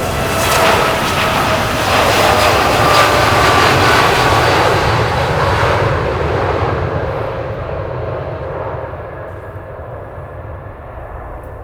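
Boeing 787 jet airliner taking off, its engines loud at takeoff thrust with a steady whine over the rush. The sound fades as the plane climbs away, the high end dying out after about six seconds.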